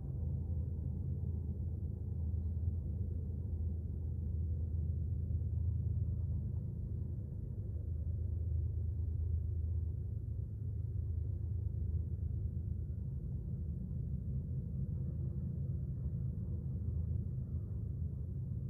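Low, steady rumble of a Norfolk Southern diesel freight train, swelling and easing slightly. The train's horn trails off at the very start.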